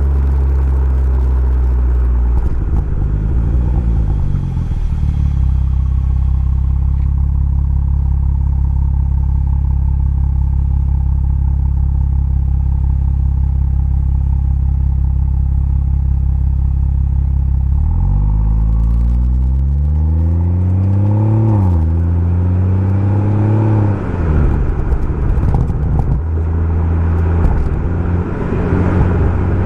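BMW M140i's turbocharged straight-six engine and Remus aftermarket exhaust, running at steady revs for a long stretch. Past halfway it revs up, drops sharply in pitch at a gear change, climbs again, then eases off.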